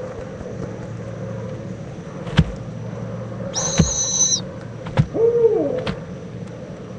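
Barred owl giving one short hoot that slides down in pitch, about five seconds in. A second or so earlier there is a high, thin squeal, and a few sharp knocks come and go over a steady low hum.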